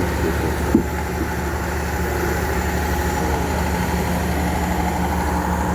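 A heavy engine running steadily at idle, a constant low hum, with a single short knock about a second in.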